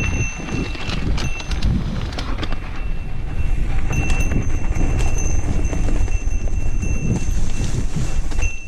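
Mountain bike rolling over a dirt trail: a steady low rumble of tyres and wind on the camera, with irregular clicks and knocks as the bike rattles over bumps, and a thin high whine that comes and goes.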